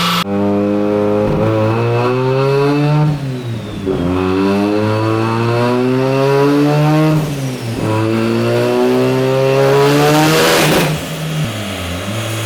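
Turbocharged 13B rotary engine of a Mazda RX-7 FC on a dyno, revved up three times, each rise in pitch lasting about three seconds before dropping back. A loud hiss builds near the top of the third rise, about ten seconds in, and then the engine falls back to a lower, steady note.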